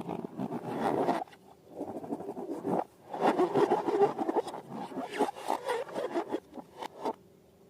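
Rubber balloons and slime being handled: crackly rubbing and scraping in three stretches that stops about seven seconds in.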